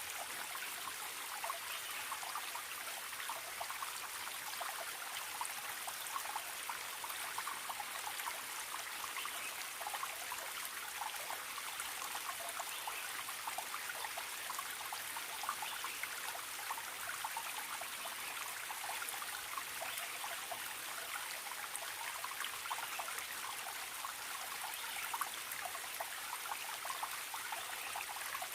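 Small forest stream trickling and babbling steadily over stones.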